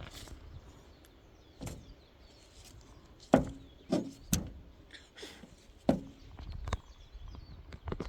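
A series of irregular, sharp knocks and thumps, about seven in all, most of them between three and seven seconds in.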